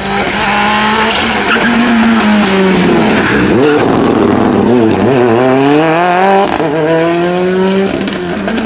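Rally car engine at close range: the revs dip and wobble about midway as the car slows, then climb steadily through a long pull before dropping back near the end.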